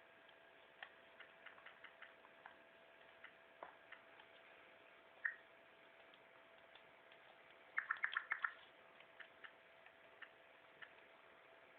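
Faint, irregular light clicks and ticks over a low steady hum, with a quick run of clicks about eight seconds in.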